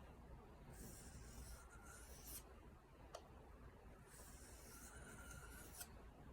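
Faint scraping of a sheath knife's blade drawn across a wet whetstone in two long, smooth sharpening strokes, with a small tick between them.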